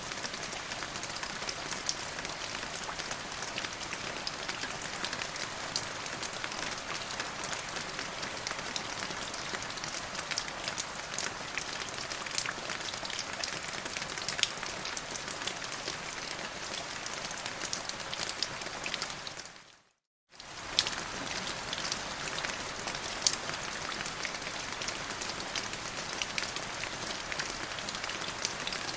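Steady rain falling on a surface, an even hiss with frequent sharp drop ticks. About two-thirds of the way through it fades out to silence for about a second and then comes back.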